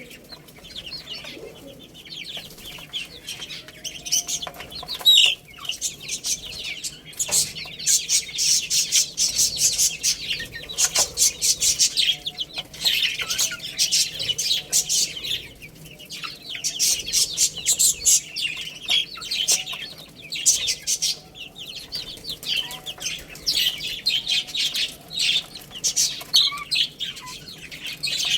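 A brood of baby chicks peeping: many rapid, high, overlapping chirps that come in busy clusters with short lulls between.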